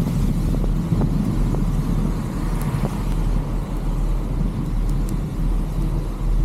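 Steady low rumble of vehicle and wind noise on a roof-mounted camera's microphone, with a few faint ticks.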